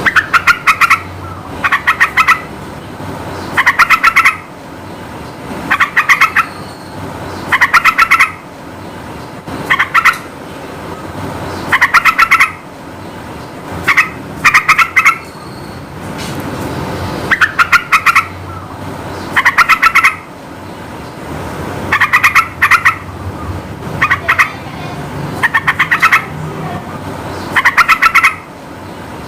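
Yellow-vented bulbul (trucukan) singing short, fast phrases of bubbly notes, one phrase about every two seconds, over a steady background hiss.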